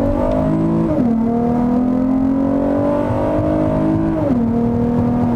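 Acura TL Type-S V6 accelerating hard with an XLR8 non-resonated exhaust and V2 J-pipe, heard from inside the cabin. The engine note climbs, falls at an automatic upshift about a second in, climbs again, and falls at a second upshift near the end.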